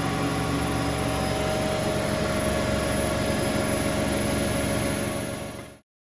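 Bauknecht WA Aquaton 1400 front-loading washing machine running steadily, its motor and drum making a constant whir with several steady tones. The sound drops away and cuts off abruptly near the end.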